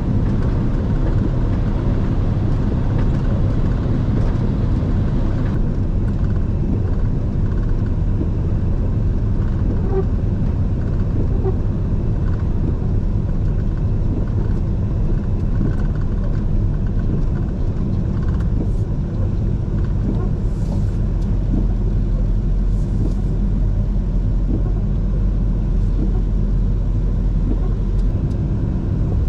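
Steady low rumble of a rollback tow truck heard from inside its cab, engine and road noise running without a break.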